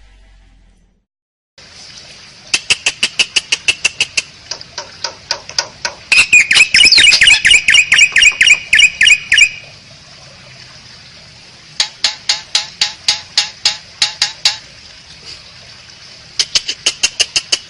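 Asian pied starling (jalak suren) calling: fast runs of harsh clicking chatter, about six clicks a second, in several bursts, with a louder stretch of grating rasps about six to nine seconds in. It starts after a second or so of silence.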